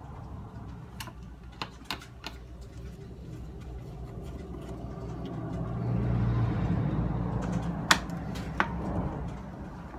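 Scattered sharp clicks and knocks of a radio's plastic parts and components being handled during disassembly, over a low rumble that swells in the middle and fades again.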